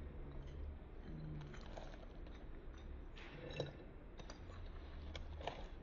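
Faint, irregular small clicks and taps, one a little louder about halfway through, over a low steady hum.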